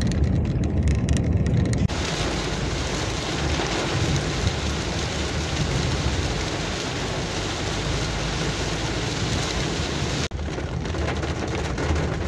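Heavy rain on a moving car: the low hum of the car with scattered drop ticks, then from about two seconds in a dense, even hiss of downpour that cuts off abruptly about two seconds before the end.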